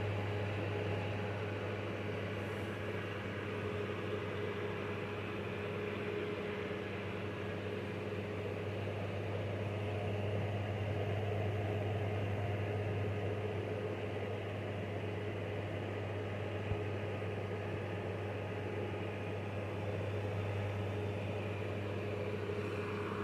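A desk fan and a small evaporative (swamp) cooler running together: a steady electric motor hum with a constant rush of blown air.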